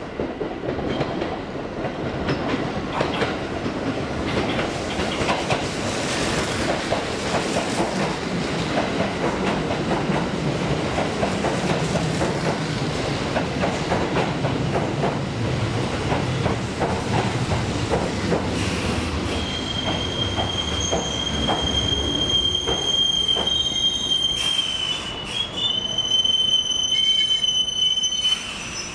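Kintetsu 22600 series limited-express train running into a station platform and braking: a steady rumble with wheels clacking over rail joints, then a steady high squeal for the last several seconds that cuts off as the train comes to a stop near the end.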